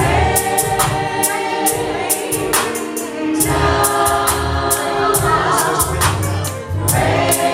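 Gospel worship music: a choir singing sustained harmonies over a band with a heavy bass line and a steady beat of high percussion hits.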